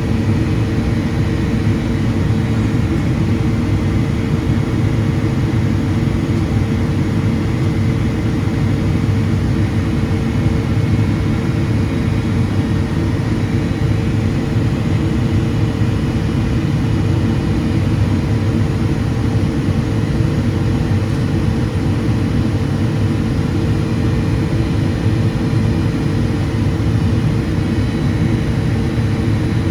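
Steady cabin drone of a Boeing 777-200ER in flight, from its GE90-92B turbofans and airflow, heard inside the cabin: a low rumble with a constant mid-pitched hum that does not change.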